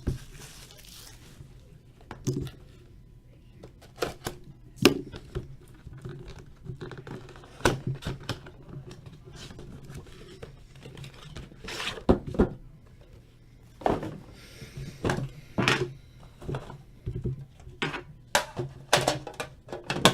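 A sealed box of trading cards and its packaging being handled and opened on a table: irregular knocks, taps and clicks at uneven intervals.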